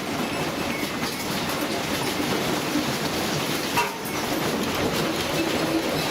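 Continuous rumbling and rattling of a high-rise building shaking in an earthquake, steady throughout with a few faint clicks.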